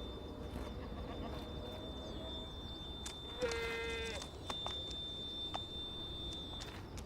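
A single short bleat from an Alpine ibex kid, one steady call about halfway through, over a faint steady high tone and a few light clicks.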